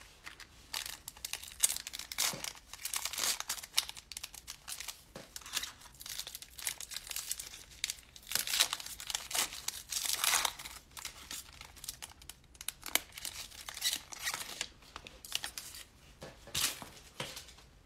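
Plastic trading-card pack wrapper being torn open and crinkled by hand: a run of irregular short rasping rustles.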